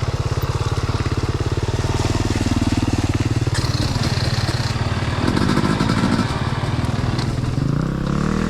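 Dirt bike engine running at low revs, with a steady rapid firing beat, the revs rising near the end.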